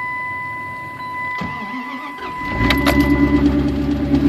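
A steady electronic warning tone sounds. About a second and a half in, the starter cranks the 1998 Dodge Dakota's 5.2 L (318) V8 in a cold start at about 5°F. The engine catches after about a second and settles into a loud, steady idle, and the tone cuts off shortly after.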